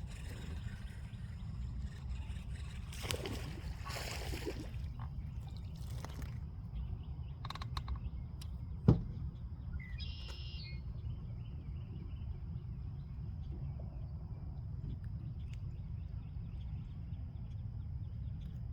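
Outdoor pond ambience: a steady high insect drone over a low steady rumble, with a few brief rustling noises early on, a short chirp about ten seconds in, and one sharp click about nine seconds in.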